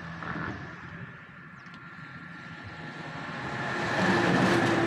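A motor vehicle's engine running and growing louder about three to four seconds in, as it passes close by.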